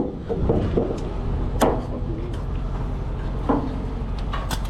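An engine starts running at a low, steady idle just after the start, with a few sharp knocks over it.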